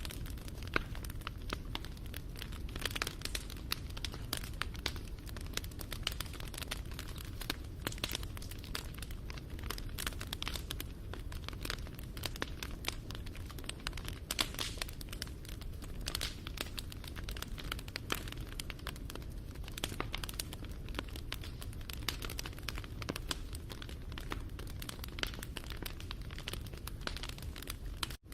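Wood fire crackling: dense, irregular snaps and pops over a steady low rumble of burning.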